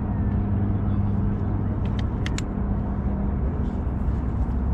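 A steady low engine drone with a constant hum, under wind rumbling on the microphone. A few short high chirps or clicks come about two seconds in.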